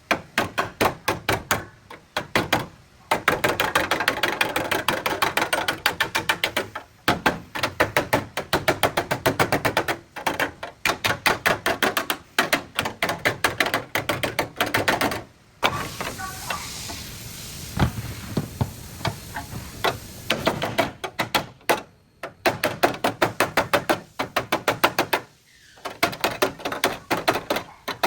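Body hammer beating on sheet metal: rapid runs of sharp blows, several a second, broken by short pauses, with a steadier stretch of noise between about 16 and 20 seconds in.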